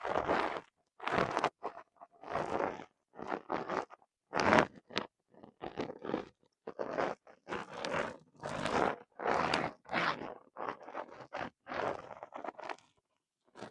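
ASMR sounds of bathroom items being handled: a rapid run of short scraping, crunching strokes, each under a second long, separated by brief silences.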